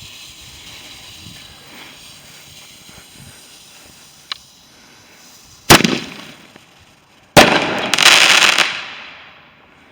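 A small firework going off close by: its lit fuse hisses for a few seconds, then it gives two sharp bangs about a second and a half apart. The second bang runs straight into a short burst of crackling that dies away, a little bang.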